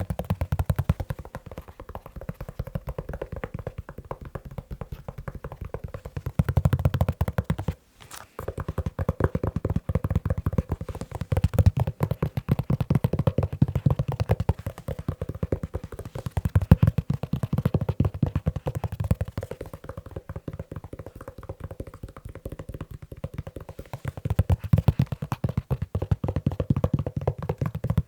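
Fast, continuous fingertip and fingernail tapping on a leather shoe, with dull low thuds and short flurries that swell and fall back, and a brief pause about eight seconds in.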